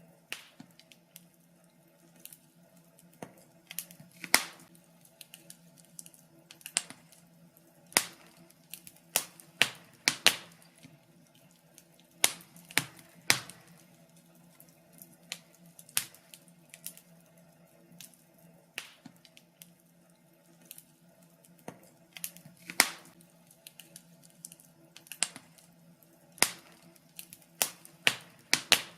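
Fireplace fire crackling: irregular sharp pops and snaps, some much louder than others, over a faint steady low hum.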